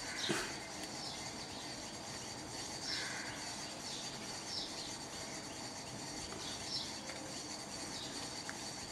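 Faint bird chirping, short falling chirps every second or so, over a soft steady hiss and the quiet wet squish of hands lathering a bar of soap.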